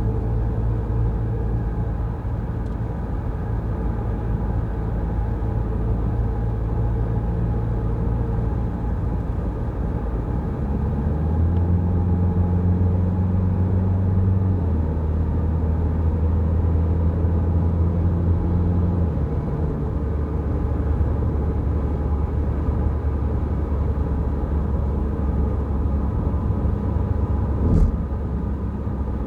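Peugeot Rifter driving on the road: a steady low engine and road drone whose engine note steps up about a third of the way in and drops back twice later, as with gear or speed changes. A short knock comes near the end.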